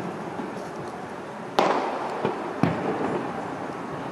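Distant aerial firework shells bursting, each bang trailing off in an echo. The loudest comes about a second and a half in, two more follow within the next second, and another lands near the end.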